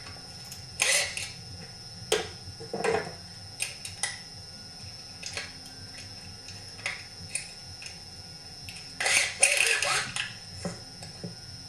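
Scattered clicks and clinks of hand tools and small metal saw parts being handled on a workbench, with a denser run of clattering about nine seconds in.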